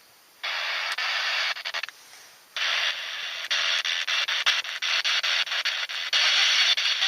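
Radio static: a hiss that cuts in about half a second in, breaks off for about a second, then returns crackling with rapid clicks.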